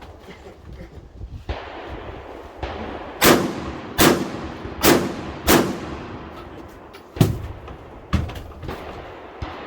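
Rifle fire: four loud shots in quick succession, each with an echo trailing after it, followed by three fainter bangs.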